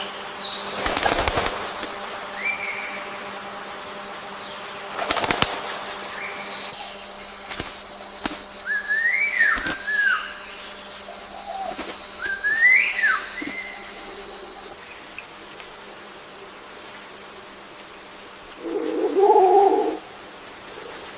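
Birds calling: two whistled calls that rise and fall, a few seconds apart, and a short, lower call near the end, which is the loudest sound. There are two brief rushes of wing flapping, about a second and about five seconds in, over a faint steady hum.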